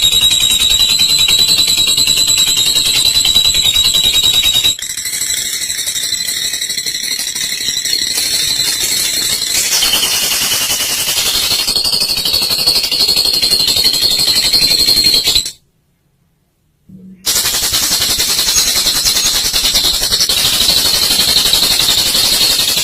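Olive lovebird singing its long, rapid, high-pitched chattering trill (ngekek), which runs on continuously. About two-thirds of the way in it stops for under two seconds, then resumes.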